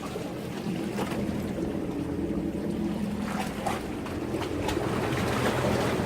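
Sea waves washing against a breakwater, with a few brief splashes, over a steady low rumble and wind on the microphone.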